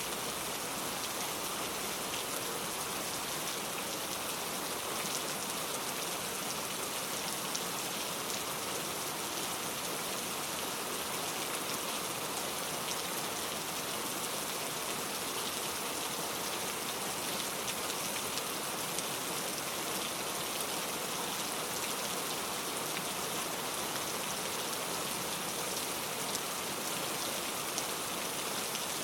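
Steady rain falling, an even hiss with fine scattered drop ticks, with no thunder.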